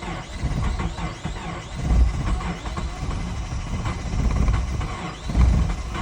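A 2007 Subaru Forester 2.5XS's 2.5-litre flat-four engine on a hard start in extreme cold, turning over unevenly, with louder surges about two seconds in and again near the end.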